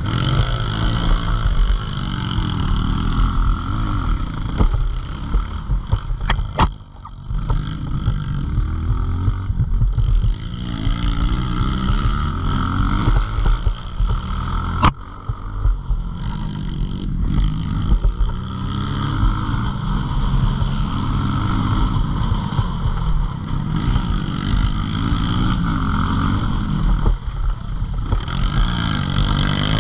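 CRA Skyview pit bike's single-cylinder engine revving up and down over and over as the bike is ridden, with a couple of sharp clicks about six and fifteen seconds in.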